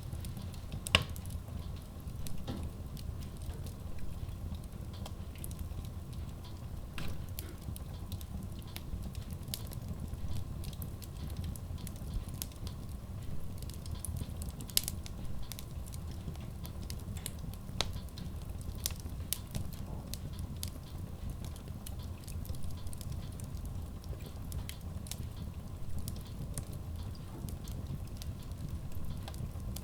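Wood logs burning in a Kratki Koza K6 steel stove-fireplace, crackling with frequent small pops and a few louder snaps, over a steady low rumble.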